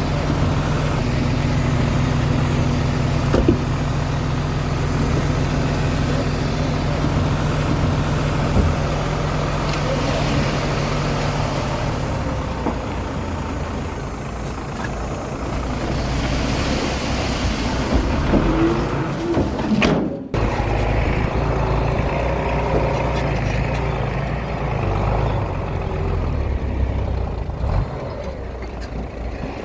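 Komatsu D21A mini bulldozer's diesel engine running steadily, its tone shifting about twelve seconds in. A few squeaks and clanks come near the twenty-second mark, and the sound cuts out for a moment just after.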